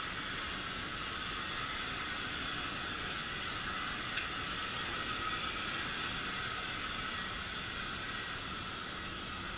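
Vacuum cleaner running steadily, a constant motor whine and airflow rush with a few faint ticks.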